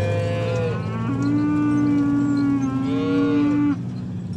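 Cattle mooing: one long, drawn-out moo from about a second in, with a higher-pitched call at the start and again near the end overlapping it, all cutting off abruptly. A steady low hum runs underneath.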